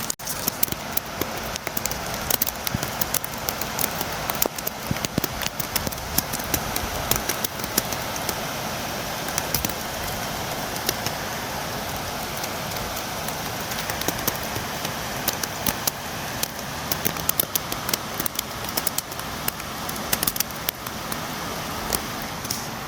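Steady rain falling, with many sharp, irregular drops tapping close by, as on a windowpane.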